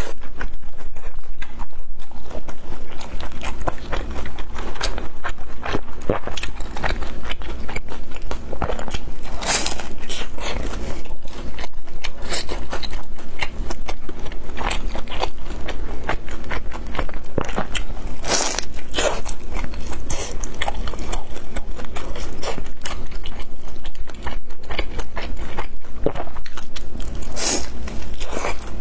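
Close-miked biting and chewing of pan-fried chive pockets: a dense run of crunches and wet chewing clicks, with a few sharper bites standing out.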